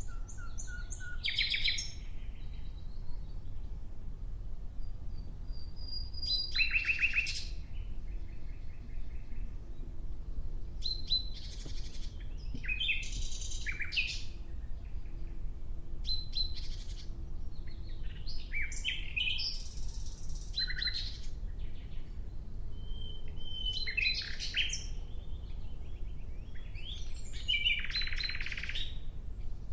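Nightingale singing: a string of separate song phrases, each a second or two long, made of rapid repeated notes, clear whistles and trills, with short pauses between them.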